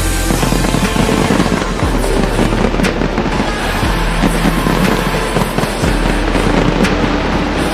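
Fireworks bursting and crackling densely over loud music with a deep bass line, starting suddenly at once with a few sharper cracks standing out.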